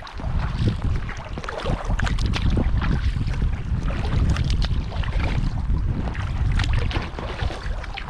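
Wind buffeting the microphone with a heavy, steady rumble, over irregular water splashes and lapping from a kayak being paddled.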